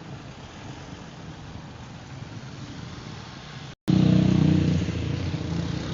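A vehicle engine running steadily and fairly quietly, then after an abrupt cut about two-thirds of the way in, a much louder engine running with a deep steady note.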